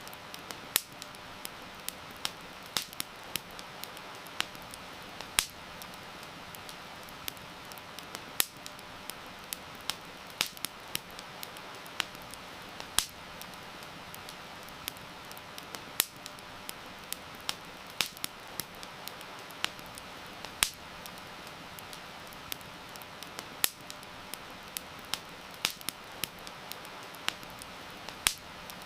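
Wood fire crackling, with irregular sharp pops several times a second, a few much louder than the rest, over a steady hiss of rain.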